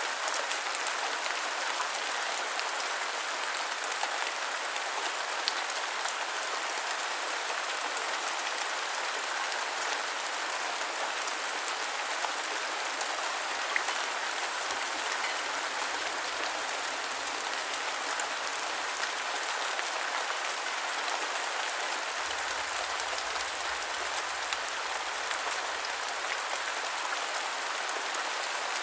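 Steady rainfall, a dense even hiss of rain with many small drop ticks and an occasional louder drop.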